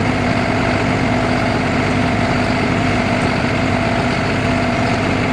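Heavy machinery running steadily: a loud, unchanging hum with a constant low tone and several higher steady tones over a dense mechanical din.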